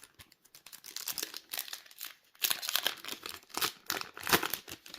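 Foil trading-card booster pack wrapper being torn open and crinkled by hand: a run of crackling rustles, loudest about two and a half seconds in and again a little past four seconds.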